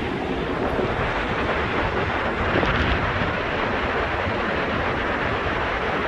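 Steady rushing roar of the Vøringsfossen waterfall, with wind buffeting the microphone.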